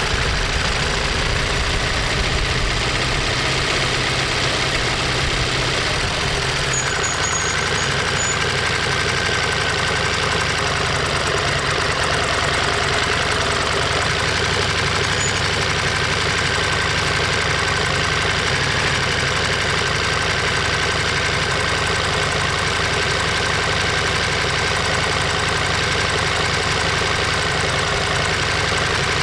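Ducati Monster 1200S's L-twin engine running steadily under way, picked up by a microphone mounted by the engine. Its note shifts slightly about six seconds in and again about fourteen seconds in.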